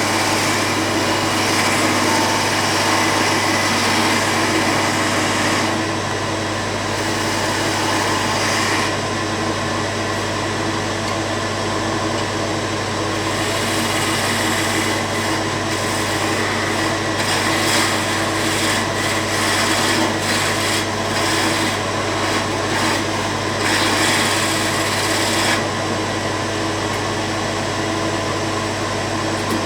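An electric power tool running steadily, with a constant motor hum and a hiss that brightens and dulls every few seconds as it works the wood.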